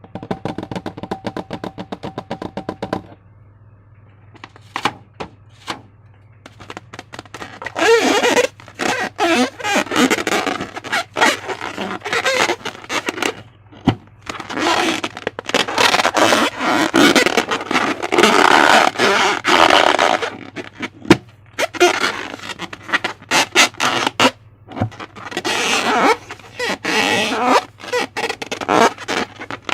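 Slime being worked by hand: irregular bursts of wet clicking, squelching and crackling. The first three seconds are a run of rapid clicks over a steady squeaky tone, and a steady low hum sits under it all.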